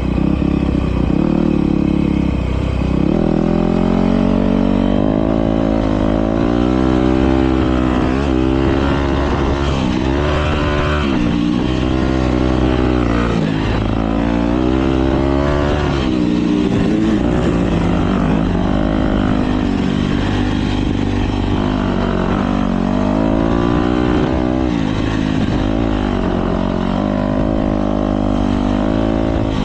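Several motocross bikes racing, their engines revving up and falling back over and over as the throttles open and close.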